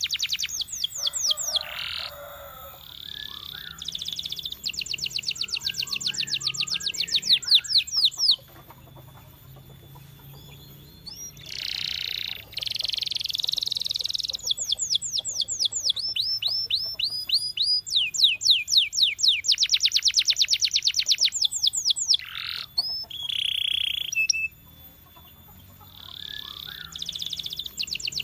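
Canary singing: song phrases made of fast runs of repeated high notes, several a second, mixed with a few longer held notes and broken by short pauses.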